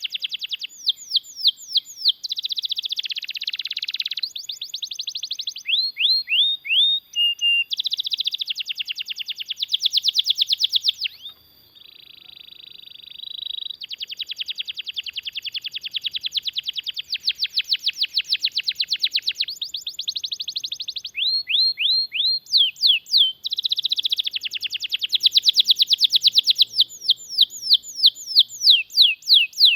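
Domestic canary singing a long, near-continuous song of fast rolling trills and rapid repeated notes, mixed with quick sweeping whistles. It breaks off briefly about eleven and a half seconds in, then resumes with a softer phrase.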